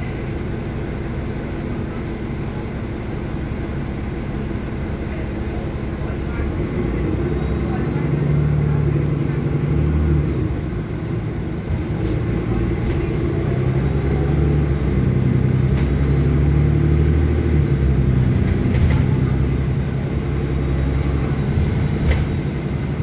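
City bus engine and road noise heard from inside the bus: a low drone that swells about a third of the way in, eases briefly near the middle, then builds again. A few sharp clicks or rattles come through in the second half.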